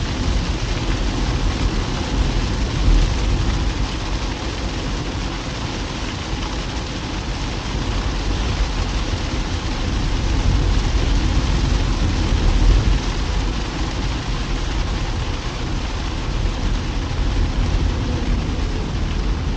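Heavy rain and a car driving through it: a dense, steady hiss of rain with a deep rumble of tyres and engine on the wet road.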